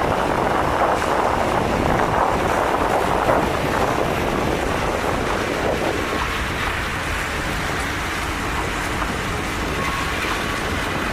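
A departing passenger train rolling out of the station with a steady rumbling noise that eases about six seconds in, with wind on the microphone.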